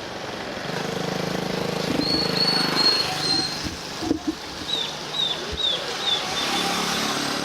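A small motor vehicle's engine running past, with a run of about five short, high, falling chirps in the second half.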